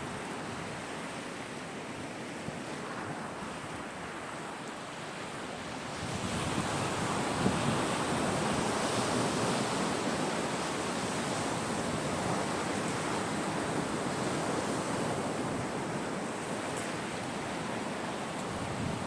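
Sea surf washing onto the shore, a steady rush of waves that swells louder about six seconds in as a bigger wave breaks, then eases a little near the end.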